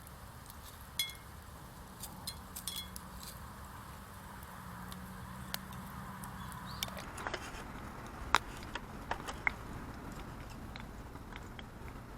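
Campfire cooking: scattered crackles and clicks over a low steady hiss, with a few short metallic clinks about a second in and again two to three seconds in.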